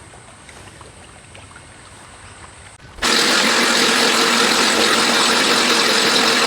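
Ozito lawn mower running, a steady loud whirring hum. It starts abruptly about three seconds in after a quiet stretch and cuts off suddenly.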